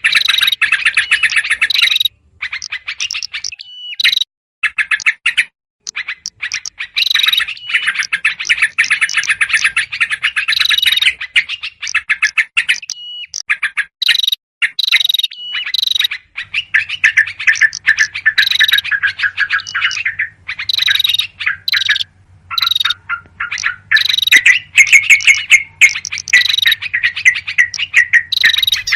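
Loud, rapid chattering of yellow-vented bulbuls, the agitated calls played as a bird lure, coming in dense bursts with short breaks between them.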